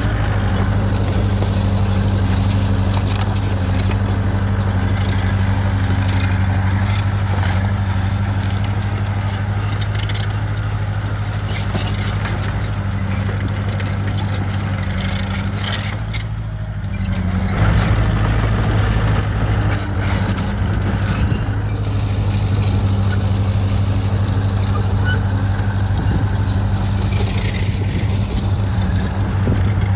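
Bulldozer's diesel engine running steadily under work, with metallic clinking and clanking from the machinery. The engine sound drops briefly about halfway through, then comes back louder.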